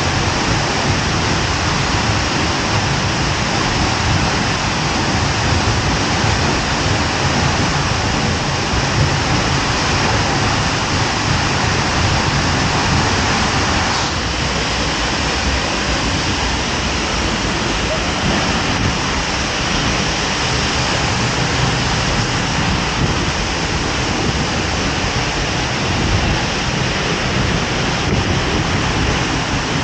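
Seljalandsfoss waterfall's falling water: a loud, steady rushing that stays unbroken throughout.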